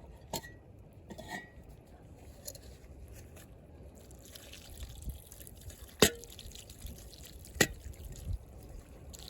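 A few sharp clinks and knocks of cooking utensils, two ringing lightly near the start and two louder knocks in the second half, over a faint steady background.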